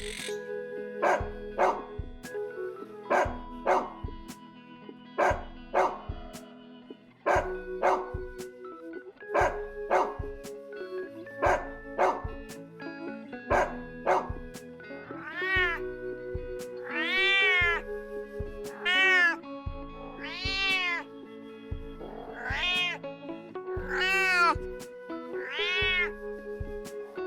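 Background music with a steady beat; about halfway through a domestic cat begins meowing over it, a string of rising-then-falling meows about every second and a half to two seconds.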